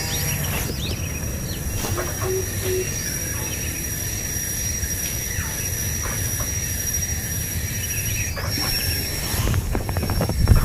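Short, falling bird chirps at scattered intervals over a steady high thin whine and a constant low rumble. Near the end there is a louder low-pitched rumble with a few clicks.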